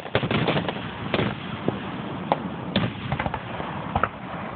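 Aerial firework shells bursting: a rapid run of bangs in the first second, then single bangs about every half second.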